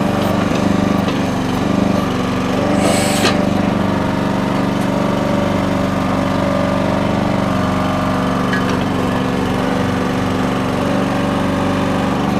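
Small gas engine of a Red Rock mini backhoe running steadily while it digs in garden soil. A short hiss-like burst comes about three seconds in.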